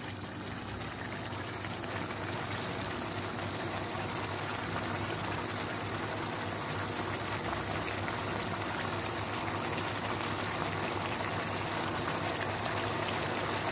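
Civet meat in sweet soy sauce sizzling and bubbling steadily in a wok as the sauce cooks down until the oil separates.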